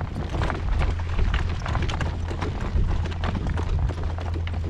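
Horse's hoofbeats on the ground as it is ridden, with strong wind rumbling on the microphone.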